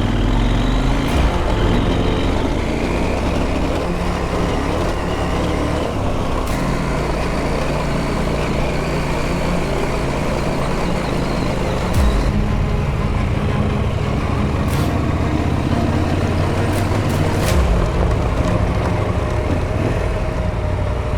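Adventure motorcycle engine running under way, with wind and road noise. The engine note shifts to a new pitch a few times, about a third and about halfway through and again near the end, as the throttle or gear changes.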